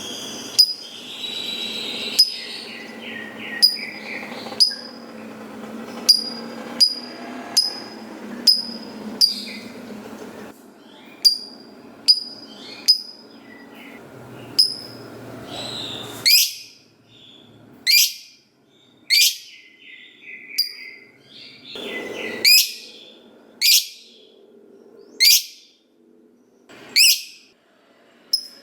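Lovebird (Agapornis) giving short, shrill calls that drop in pitch, about one a second, over a continuous busy chattering for roughly the first ten seconds.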